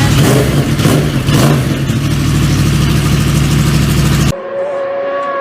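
Motorcycle engine running loud and revving in surges. About four seconds in it cuts off abruptly to a different clip with a steady high-pitched whine.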